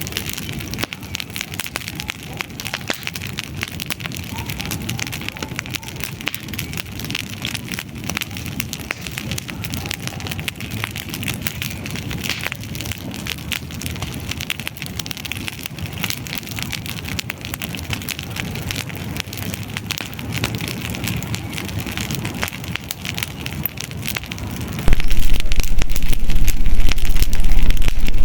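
Wood campfire burning, with a dense run of fine crackles and pops. Near the end a sudden, much louder low rumble sets in and holds.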